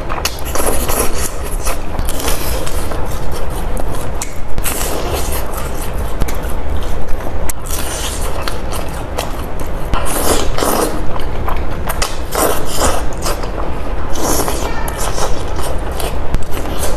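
Close-miked eating of rice noodles: slurps and chewing in irregular bursts, with small clicks and scrapes in between.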